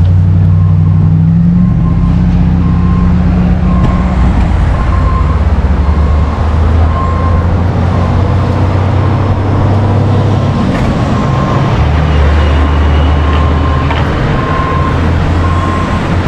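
Motor vehicle engine running loud and close, its pitch shifting a few times, with a faint short beep repeating about once a second.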